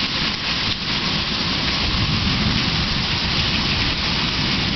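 Heavy rain pouring steadily in a stormy wind, with a low, uneven rumble underneath.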